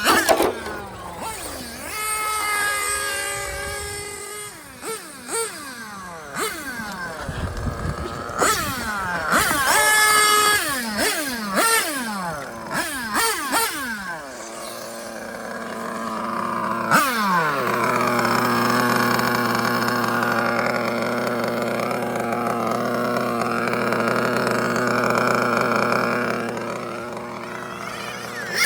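Nitro RC car's OS Speed R2103 .21 two-stroke glow engine, revving up and down over and over as it is driven, its pitch rising and falling with each burst of throttle. From about two-thirds of the way in, the engine holds a steady pitch.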